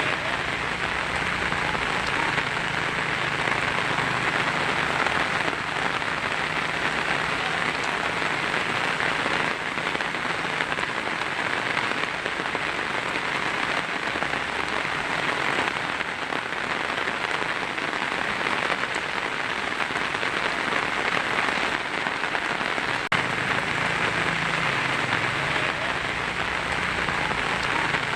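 Heavy rain on a tin roof: a steady, dense patter with no letup.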